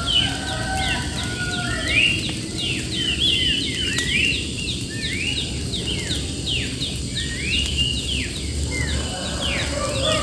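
Many birds chirping together: overlapping short whistled calls that sweep up and down, repeating several times a second, over a steady low noise.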